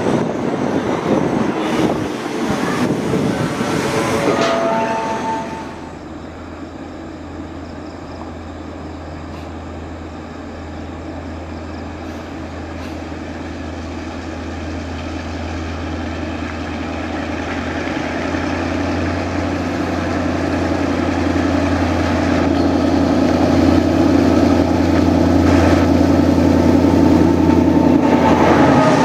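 Passenger coaches rolling past with the clatter of wheels over rail joints and a brief wheel squeal. Then a diesel locomotive approaches, its engine drone growing steadily louder, and the pitch drops as it passes near the end, hauling a train of container flatcars.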